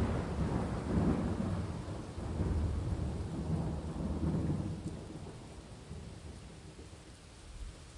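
Thunder rolling and rumbling in several low swells over steady rain, the rumble dying away about halfway through and leaving the hiss of falling rain.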